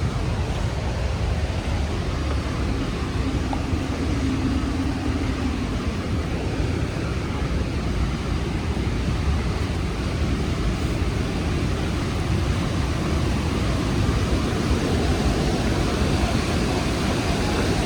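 Rhine Falls' waterfall roar: a steady rush of falling water, strongest in the low end.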